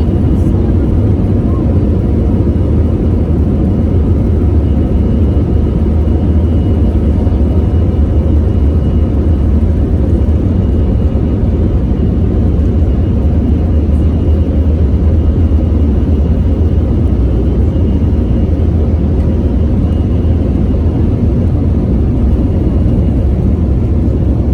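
Airbus A321's CFM56-5B3 turbofan engines roaring, heard inside the cabin as a loud, steady low rumble with faint steady tones above it.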